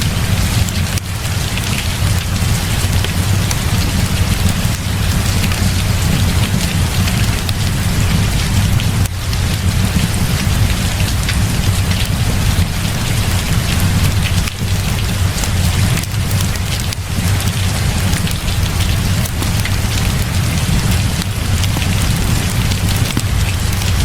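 Heavy rain falling steadily, over a constant low rumble and with faint scattered crackles of a fireplace.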